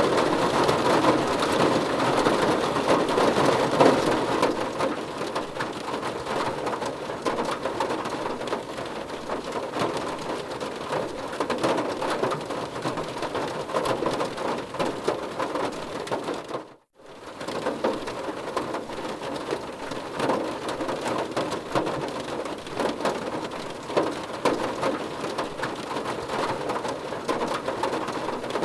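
Heavy rain falling steadily, with many close drop impacts. The sound drops out for a split second about seventeen seconds in, then resumes.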